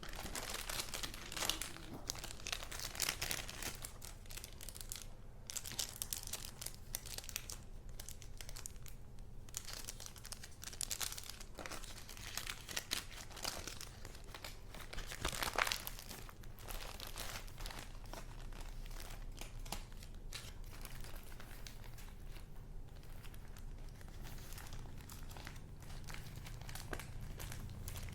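Paper rustling and crinkling as the pages and paper goods of a handmade junk journal are handled, in irregular strokes with the loudest about halfway through.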